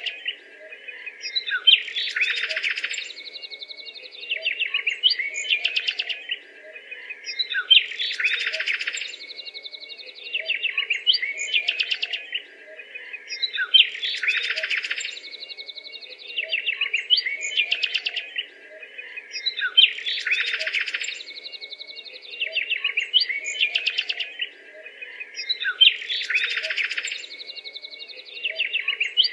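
Birdsong, a mix of chirps and trills, with the same phrase coming round again about every six seconds.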